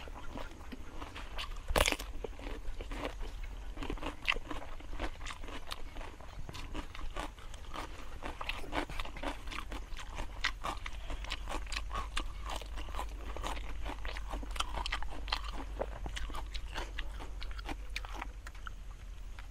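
A person chewing grilled fish close to a clip-on microphone: a continuous run of small, wet crunches and clicks, with one louder crunch about two seconds in.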